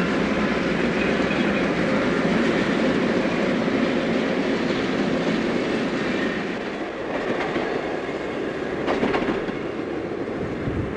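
Passenger train rolling past on the curve, its wheels and cars clattering over the rails; the sound eases a little about six seconds in, with a brief sharper clatter near nine seconds.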